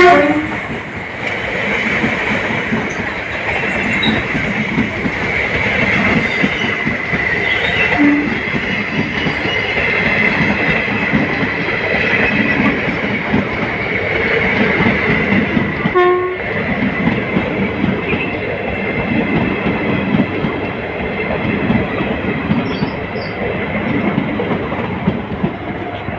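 Diesel passenger train running along the track with steady wheel-and-rail noise. A brief horn blast ends right at the start, and another short horn sounds about 16 seconds in.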